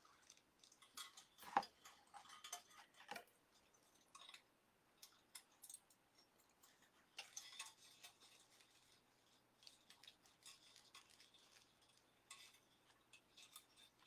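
Faint, scattered crinkling, rustling and small clicks of deco mesh and a wire tie being handled and pushed through the mesh, with quiet stretches between.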